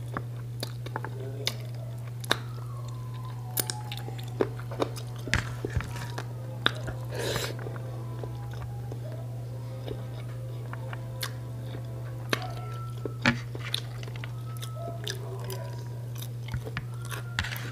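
Close-miked chewing and mouth sounds of a person eating rice and meat by hand, with scattered wet smacks and clicks over a steady low hum.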